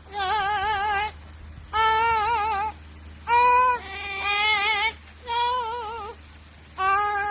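Pet parrot singing: a string of about six held notes, each up to about a second long, with a wavering, vibrato-like pitch and short pauses between them.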